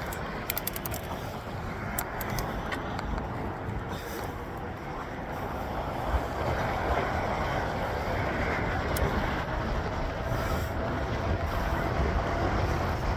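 Road traffic heard from a moving bicycle: a steady rush of car and tyre noise that swells slightly toward the end, with a few light clicks about half a second in.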